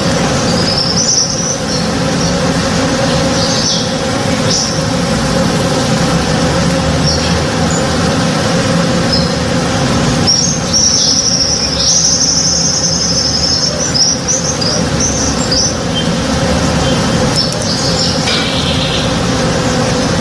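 Many honey bees buzzing steadily as they forage on a tree in bloom. Birds chirp over the hum, with a long run of chirps about halfway through.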